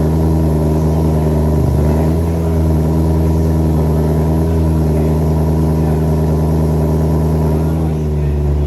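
BMW E90 M3's V8 engine with a custom exhaust, droning steadily while the car is driven. The note wavers briefly about two seconds in and settles a little lower near the end.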